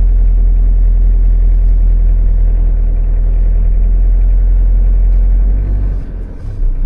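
Motorhome engine running at low speed while manoeuvring, a steady low drone that eases off and changes note near the end.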